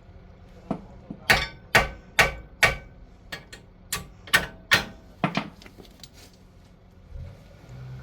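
Hammer blows: about a dozen sharp strikes at roughly two a second, stopping about five and a half seconds in.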